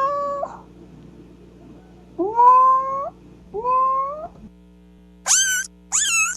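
Kitten meowing. The end of one meow is followed by two meows that rise and then hold their pitch. After that come two short, higher-pitched meows that fall in pitch.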